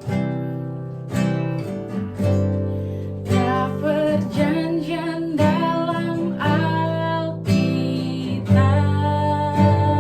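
Acoustic guitar strumming chords about once a second, starting a praise song, with a voice singing along from a few seconds in.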